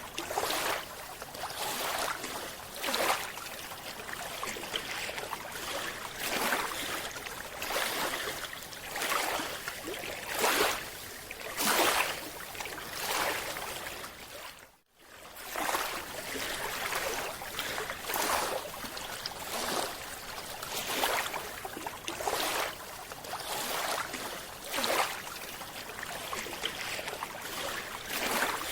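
Rushing water noise that swells about once a second, with a brief dropout about halfway through.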